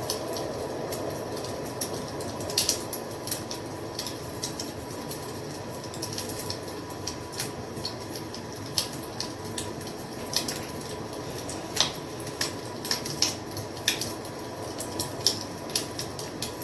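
Fire crackling: irregular sharp pops and snaps over a steady rushing hiss.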